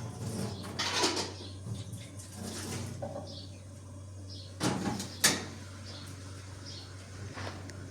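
Household handling sounds: sharp knocks and clatters, like cupboard or door knocks, about a second in and twice around five seconds in, over a steady low hum.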